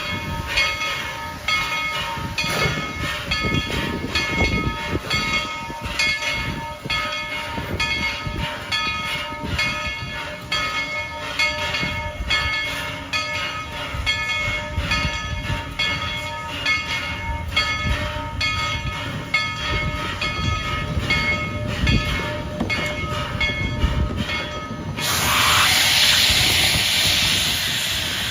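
Tweetsie Railroad's narrow-gauge steam locomotive No. 190 and its train running, with a steady rhythm of beats and several steady ringing tones. About 25 seconds in, a loud release of steam hisses out and then slowly fades.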